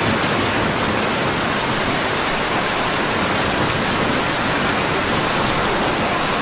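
Steady rain falling, a dense even hiss with a few faint high ticks.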